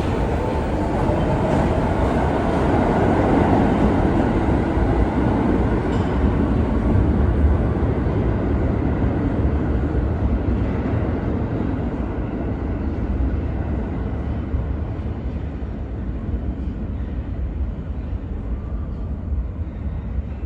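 New York City subway train running through the station: a steady, loud rumble of wheels on the rails, with a motor whine rising in pitch over the first couple of seconds, the noise fading slowly toward the end.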